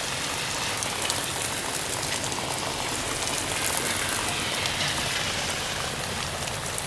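Heavy rain falling steadily, a dense hiss with the sharp patter of individual drops hitting hard surfaces.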